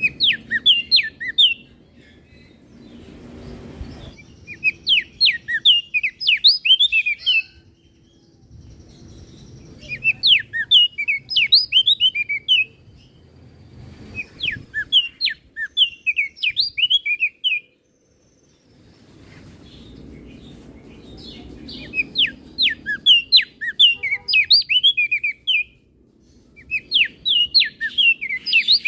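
Crested white-eye (opior jambul) singing in about seven loud bursts of rapid, sharp, downward-slurred whistled notes. Each burst lasts two to three seconds, with short pauses between, over a faint low rumble.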